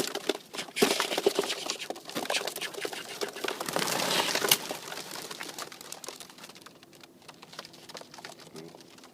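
Young racing pigeons flapping out of a release basket and taking off together: a dense clatter of wing claps and rustling that fades away over about five seconds as the flock flies off.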